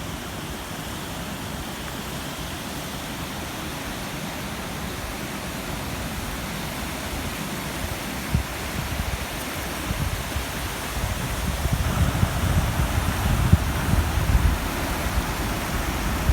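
Rushing water of a waterfall and stream, a steady noise that grows louder in the second half with uneven low rumbling.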